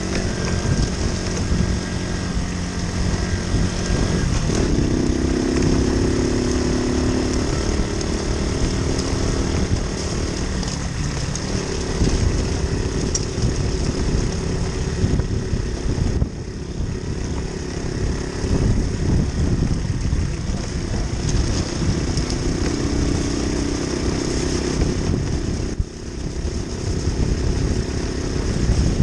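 Moped's small engine running under way, its pitch shifting up and down several times as the speed changes.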